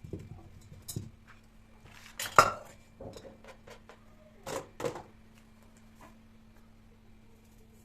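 Dishes and cutlery clattering as they are handled, in about six separate knocks and clinks with the loudest about two and a half seconds in. It goes quiet a little after halfway, leaving a faint steady hum.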